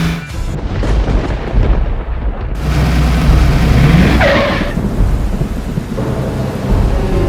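Thunderstorm sound effect: a heavy, low rumble of thunder over a steady hiss of rain, with a rising swoosh about halfway through.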